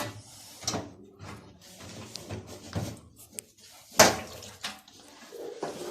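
Irregular clicks and knocks of hands working a hose clamp and drain hose off an automatic washing machine's drain pump, with one sharp, loud knock about four seconds in.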